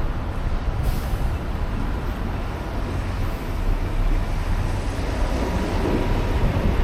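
City street traffic, with a heavy vehicle such as a bus or truck rumbling. There is a brief high hiss about a second in.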